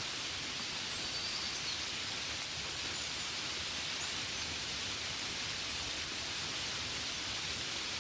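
Steady gentle rain, an even hiss with no single drops standing out.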